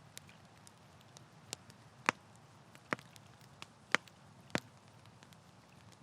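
Campfire crackling: a scatter of sharp pops and snaps, four of them louder, between about two and five seconds in, over a low steady background hiss.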